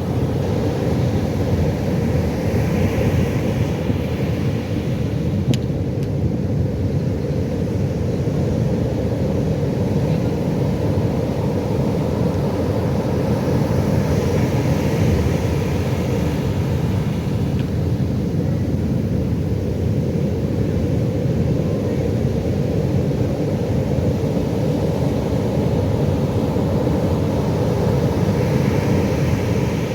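Pacific Ocean surf: a steady low rumble of breaking waves, with the hiss of a wave washing in swelling up about every twelve seconds.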